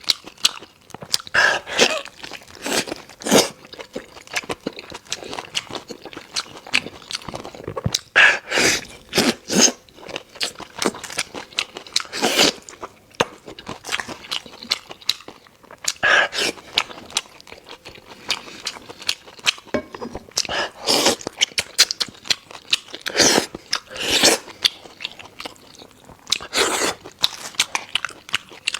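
A person chewing and biting into lamb ribs and lamb neck close to the microphone: irregular crunchy bites and chews, with louder bursts every second or two.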